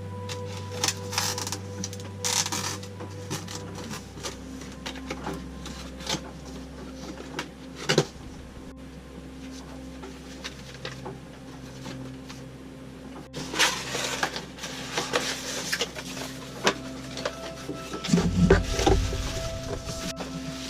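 Cardboard and plastic packaging being handled and pulled apart while a new portable generator is unboxed. There are scattered clicks and rustling bursts, and a heavy low thump near the end as something is set down, over a faint steady hum.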